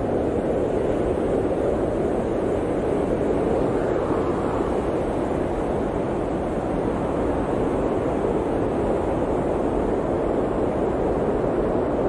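Blizzard wind blowing in a steady, dense roar, with a slight swell about four seconds in.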